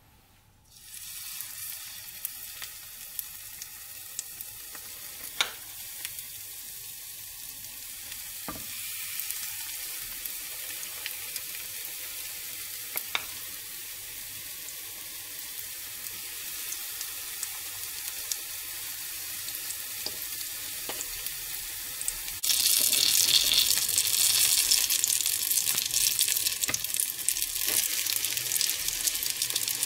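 Pancake batter sizzling and crackling in hot oil in a frying pan, with a few sharp clicks of utensils early on the way. The frying jumps louder and brighter about three-quarters of the way through.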